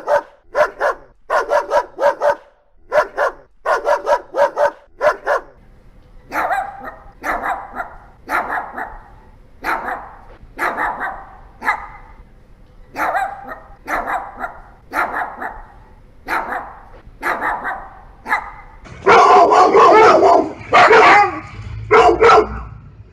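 Dogs barking repeatedly. There are quick clusters of sharp barks at first, then single barks about one a second. Near the end comes a louder, almost continuous bout of barking.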